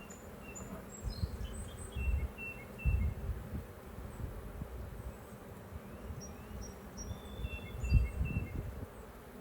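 Honeybees buzzing around an opened hive, the colony stirred up and defensive. Several low thumps, the loudest near the end, and series of short high bird chirps sound over it.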